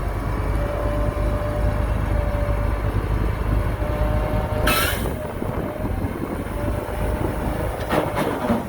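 Heavy earthmoving machinery running with a steady low rumble and a thin, steady whine. A short, sharp hissing noise comes about halfway through, and another near the end.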